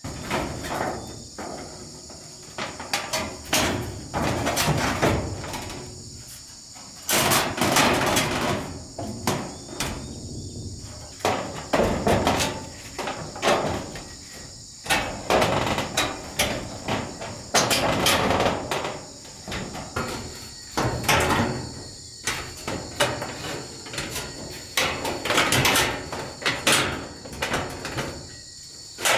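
Irregular runs of hammer blows, some sharp knocks and some longer, noisier strikes, over a steady high chorus of insects.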